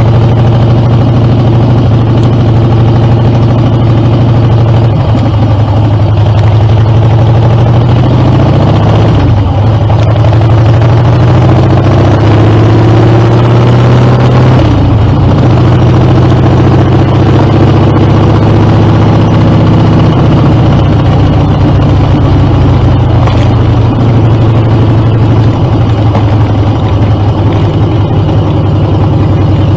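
Harley-Davidson Dyna's V-twin engine running through Screamin' Eagle exhaust. The pitch climbs steadily from about a quarter of the way in, drops sharply about halfway as the throttle comes off or a gear changes, then holds steady.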